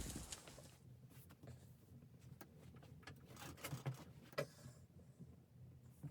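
A few faint, scattered clicks and knocks against near silence, with a hiss fading out in the first second.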